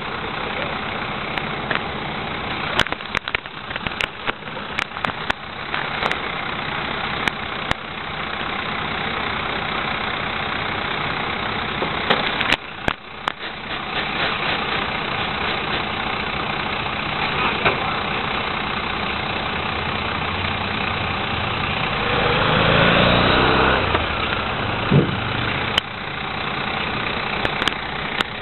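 Rear-loader recycling truck's diesel engine idling steadily, with scattered sharp knocks and clanks. About 22 seconds in, the engine revs up for a couple of seconds and settles back.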